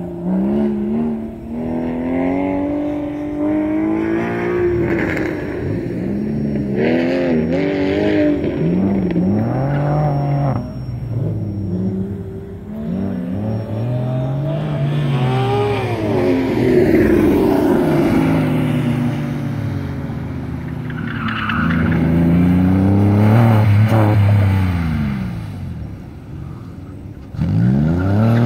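Porsche 996 Carrera 4S flat-six engine revving up and falling back again and again as the car accelerates and brakes between autocross cones. The pitch rises and drops many times, and is loudest a little past the middle and again near the end.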